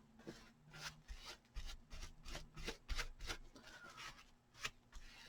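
Paintbrush stroking a liquid waterproof coating onto a fabric hat: faint, irregular short brushing swishes, one after another.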